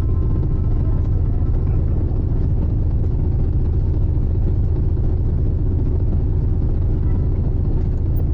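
Steady low rumble of the icebreaker Aurora underway, its engine drone and hull noise running evenly with faint steady tones above.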